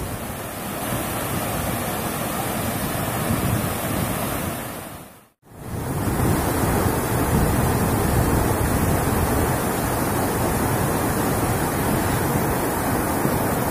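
Steady rush of a waterfall in full monsoon flow, heavy falling water. The sound drops out to silence briefly about five seconds in, then resumes as before.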